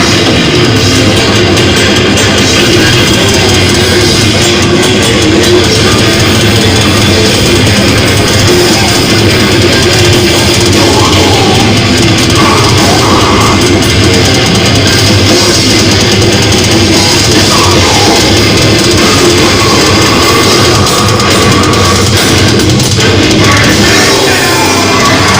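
Loud heavy metal played by a band, with guitars and a drum kit.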